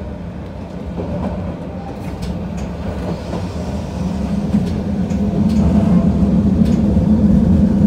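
Narrow-gauge electric train's motors and running gear heard from inside the car as it pulls away, the hum growing louder as it picks up speed. Sharp clicks from the wheels come here and there.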